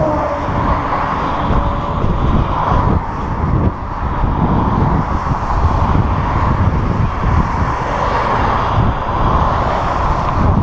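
Wind buffeting the microphone of a moving bicycle rider: a loud, steady rush of noise that swells and dips irregularly.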